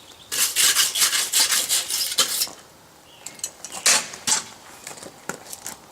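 Rapid scraping strokes of a wire brush on hot forged steel for about two seconds, cleaning off scale, then a few sharp metallic knocks, the loudest about four seconds in.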